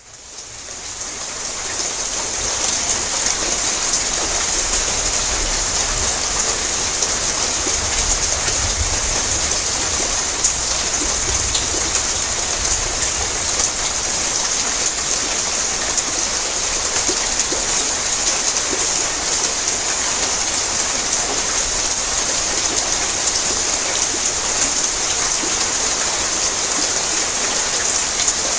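Heavy rain falling on a tin roof: a steady, dense patter of drops on the metal sheeting. It fades in over the first couple of seconds.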